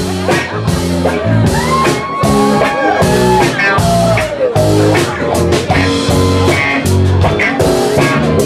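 Live band playing a rock song: guitar and a drum kit beat, with a lead melody line that bends and glides in pitch.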